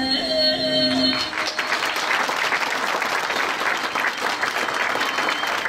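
The last held note of a song ends about a second in, then an audience applauds steadily.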